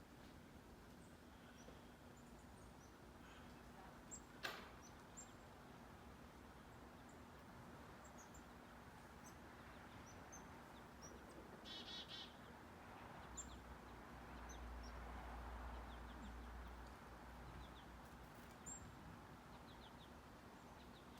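Faint, scattered chirps of small songbirds, with a short trill about twelve seconds in, over a steady low hum and a low rumble partway through.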